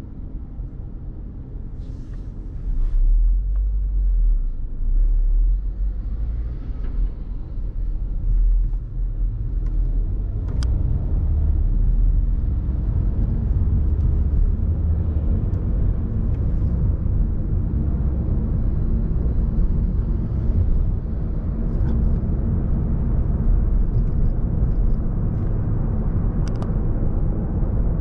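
City street traffic: passing cars making a steady low rumble that grows louder about three seconds in.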